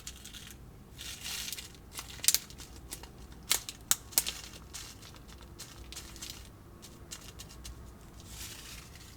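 Plastic or paper packaging being handled and crinkled, with several sharp clicks or taps in the middle.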